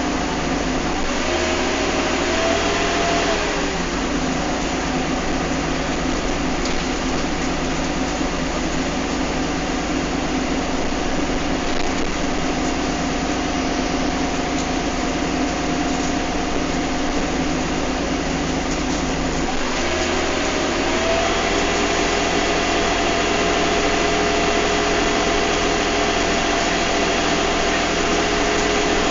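Bus engine and driveline heard from on board, running steadily under way, with high whining tones from the drivetrain. The whine glides and shifts pitch in the first few seconds and again about twenty seconds in, where the engine note also changes, as with a gear change.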